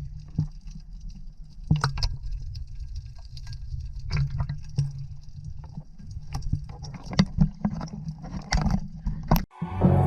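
Motorboat underway: a steady low engine hum, with sharp knocks and splashes scattered through it. Music comes in at the very end.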